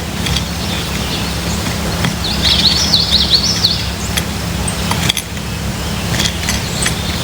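A songbird calls once, a fast run of high notes lasting about a second, a couple of seconds in. Under it runs a steady low rumble, with scattered sharp clicks.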